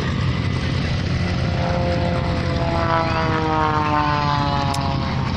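A single-engine MXS aerobatic propeller plane flying past, its engine and propeller note sliding slowly down in pitch as it goes by.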